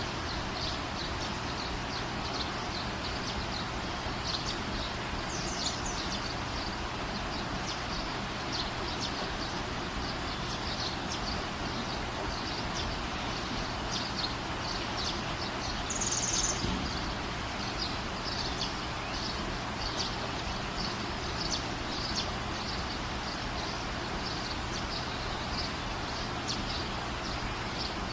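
Small birds chirping over and over against a steady background hiss, with one louder chirp about halfway through.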